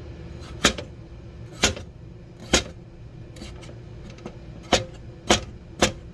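Kitchen knife cutting through a potato and striking the cutting board: six sharp chops, about a second apart, with a longer pause in the middle.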